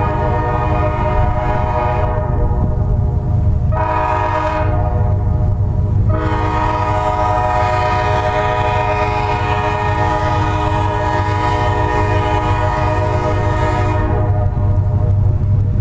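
Locomotive horn of an NS C44-9W diesel sounding a chord: a blast trailing off about two seconds in, a short blast near four seconds, then a long blast of about eight seconds, in the long-short-long pattern of a grade-crossing warning. A steady low diesel rumble from the passing locomotive runs underneath.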